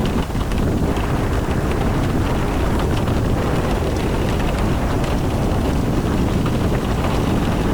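A car driving in the rain: a steady low rumble of the road and engine with the hiss of rain and faint scattered ticks.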